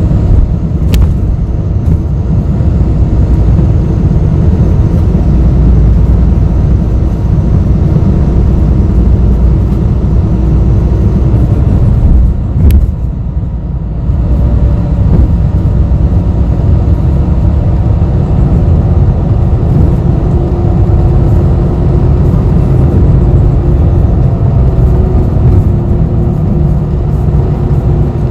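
Interior of a city bus on the move: steady low engine and road rumble, with a brief easing of the noise about halfway through.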